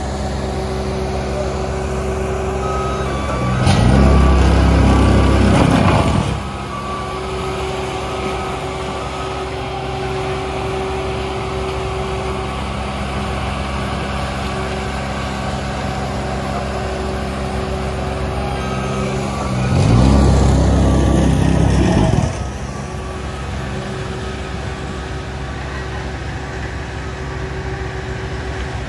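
Heavy diesel road-paving machinery running steadily, with a reversing alarm beeping. Twice the engine noise swells much louder for a couple of seconds, about 4 seconds in and again about 20 seconds in.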